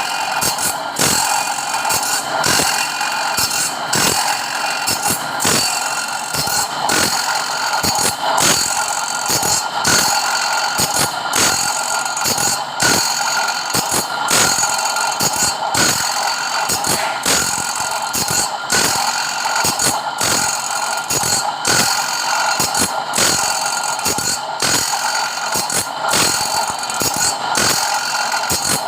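Automatic saw-sharpening machine running: a steady grinding whine with a regular click about twice a second as it indexes from tooth to tooth.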